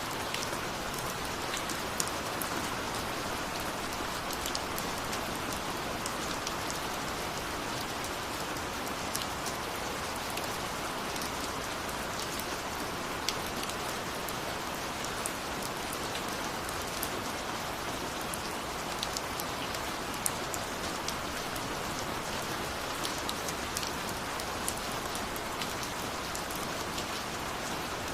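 Steady rain with many separate drops ticking sharply on a surface.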